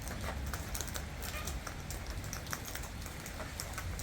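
Irregular light clicks and taps, several a second, over a low steady rumble.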